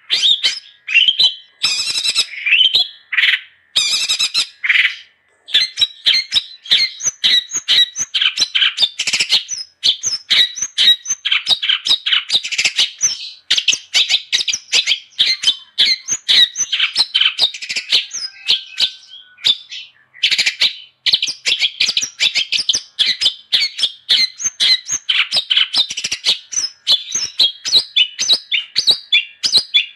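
Long-tailed shrike (cendet) in full song: a fast, unbroken chatter of sharp high notes mixed with harsher squawky calls, pausing only briefly about twenty seconds in.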